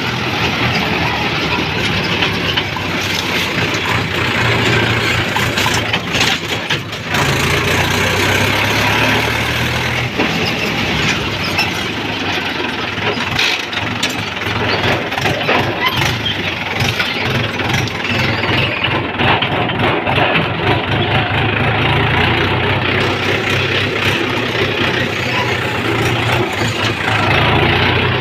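Tractor diesel engine running steadily, with an even low engine note throughout.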